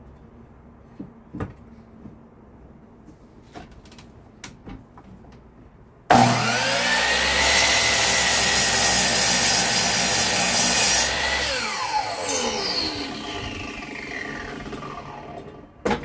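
Electric woodworking power tool switched on about six seconds in, spinning up to a steady high whine and running for about five seconds, then switched off and winding down slowly with a falling pitch. Light knocks and clicks come before it starts, and a single knock near the end.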